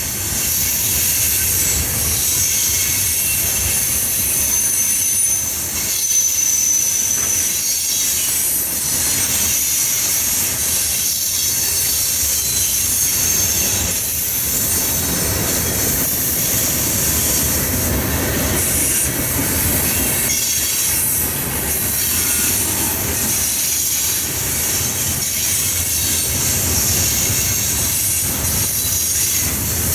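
Train cars rolling steadily past on steel rails with a continuous rumble. Thin high-pitched wheel squeals come and go, and there is a light, regular clacking of wheels over rail joints.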